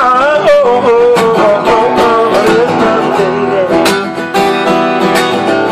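Acoustic guitar strumming in an instrumental break of a song, with a wavering melody line over it in the first half.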